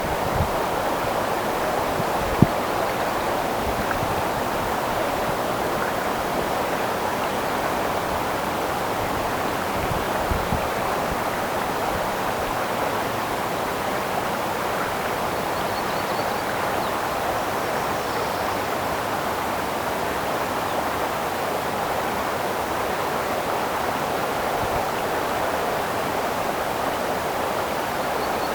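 Creek water flowing and rushing steadily. A short low thump comes a couple of seconds in.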